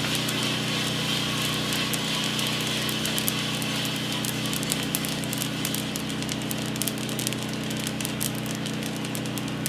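Drum coffee roaster running with freshly dropped roasted beans being stirred in its cooling tray: a steady motor hum and rush of air from the cooling fan, with many small sharp clicks from the beans.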